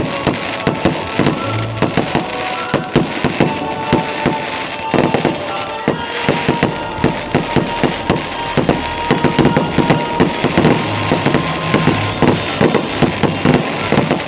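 A fireworks display going off in a dense run of bangs and crackles, several every second, with music playing underneath.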